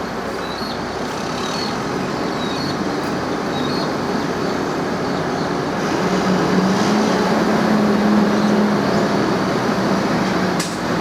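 A heavy vehicle's engine running steadily, its low drone growing louder about six seconds in.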